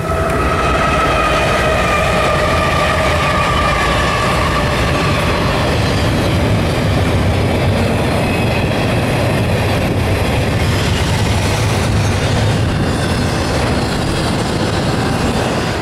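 CSX double-stack intermodal freight train passing close by: a loud, steady rumble and rush of the cars rolling over the rails. High whining tones slowly fall and fade out over the first five seconds or so.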